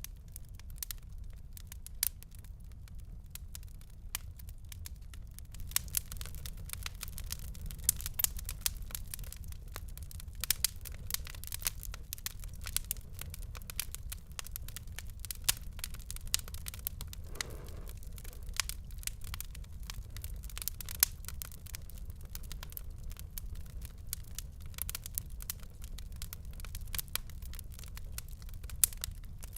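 Wood fire crackling in a fireplace: a constant run of sharp pops and snaps over a low rumble. The crackles grow denser about six seconds in, and one louder pop comes past the middle.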